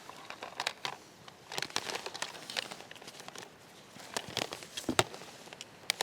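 Rustling and crinkling of gear being handled, with scattered small clicks and knocks as portable radio equipment and cables are rigged up. The sharpest click comes about five seconds in.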